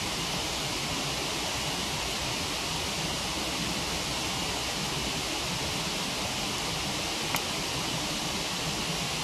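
Steady rushing of a waterfall, with a single sharp pop from the campfire about seven seconds in.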